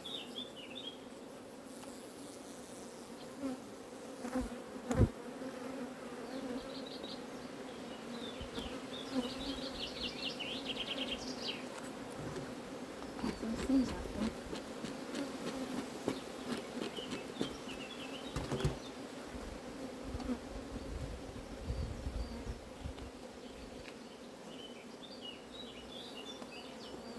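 Honeybee colony buzzing around an opened hive: a steady hum with a higher overtone. A few sharp knocks cut through it, the loudest about five seconds in.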